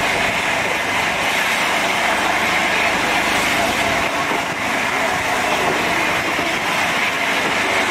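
Steady running noise of a moving passenger train, its wheels on the rails, heard from on board a carriage.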